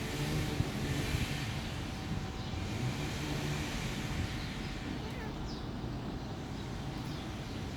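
Steady low rumble of outdoor background noise, with a few faint short chirps in the second half.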